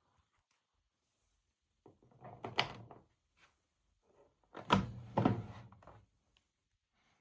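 Two clunks a couple of seconds apart, each with a short rattle after it, the second louder: parts of the AEG Lavamat 6610 washing machine being handled.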